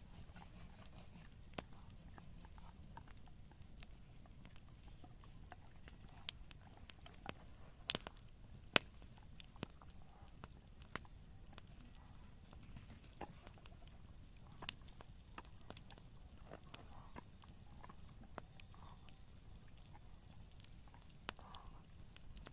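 Garden bonfire crackling faintly: irregular sharp pops and snaps, two louder ones about eight and nine seconds in, over a low steady rumble.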